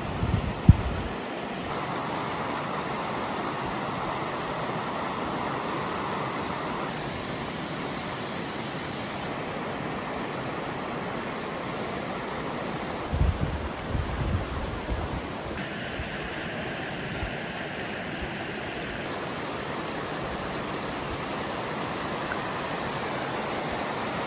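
Steady outdoor rushing noise, with a sharp low thump just under a second in and a cluster of low thumps about 13 to 15 seconds in.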